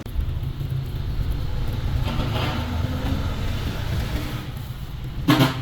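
A vehicle engine running with a steady low rumble, and a brief loud burst of noise near the end.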